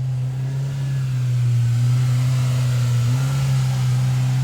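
2003 Land Rover Discovery 2's V8 engine running steadily under load with a low, even drone. A rushing hiss grows louder about a second in.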